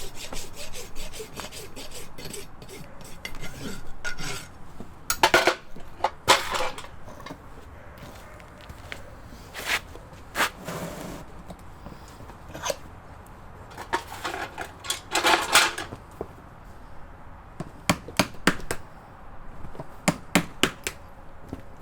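Farrier work on a horse's hoof: a short run of rasp strokes at the start, then scattered metal clinks and knocks from handling tools and shoe, and a series of sharp hammer taps near the end.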